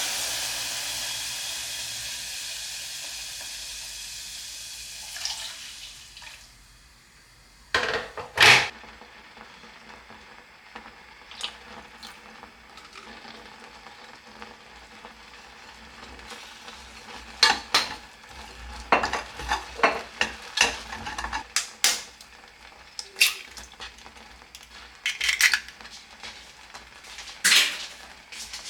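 A loud hiss, like running or spraying water, fades away over about six seconds. Then come scattered clinks and knocks of dishes and cutlery, with a spoon stirring in a cup.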